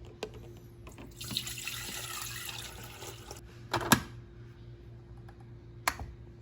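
Hot water being poured into a drip coffee filter bag over a cup, a steady trickling pour lasting about two seconds. It is followed by two sharp knocks, the first the loudest, about two seconds apart.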